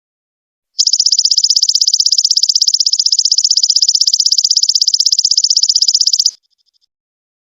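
Belalang emas ('golden locust') insect call: a rapid, evenly pulsing high-pitched trill that starts about a second in, runs for about five and a half seconds and stops abruptly.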